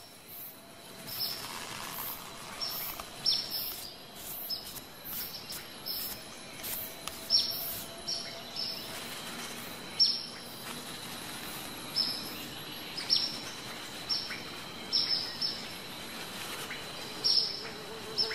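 Bird chirping: short, high, sharp notes that drop in pitch, about one a second and often in pairs, over a faint steady high whine.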